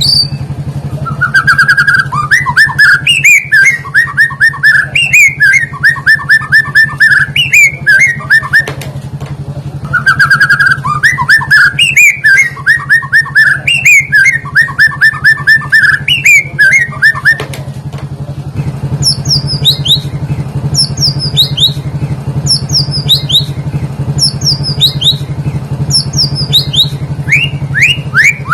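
Songbird song played as a lure for white-rumped shamas: two bouts of rapid repeated chirping notes, then a run of high, falling whistled notes, over a steady low hum.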